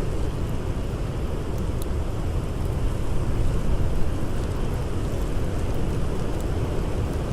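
Blizzard wind howling as a steady low rumble, with a few faint crackles from a campfire.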